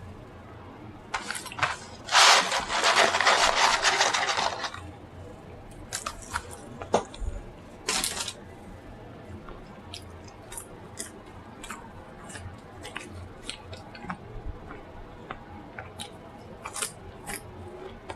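Close-miked eating: a loud crunching bite and chew about two seconds in that lasts a couple of seconds, another short crunch a few seconds later, then lighter chewing and mouth clicks.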